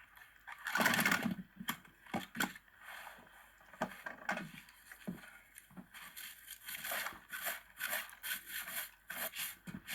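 Irregular rustling, crinkling and light knocks of things being handled, with a louder rustle about a second in.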